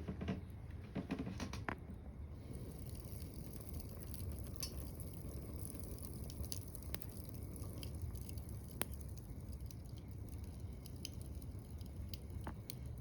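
Firewood burning in a small wood-burning camp stove: a cluster of crackles and pops in the first two seconds, then scattered single sharp pops over a steady low rumble.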